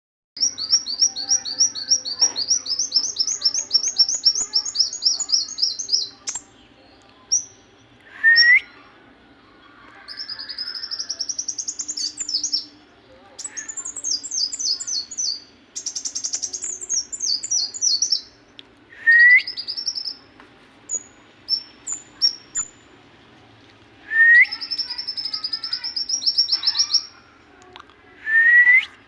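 Songbird singing in long, fast trills of high, rapidly repeated notes, several seconds each, broken by a few short upslurred whistles.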